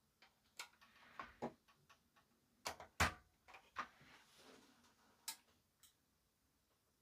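Irregular light clicks and taps from hands working on the amplifier's parts, about a dozen scattered over several seconds, the loudest about three seconds in.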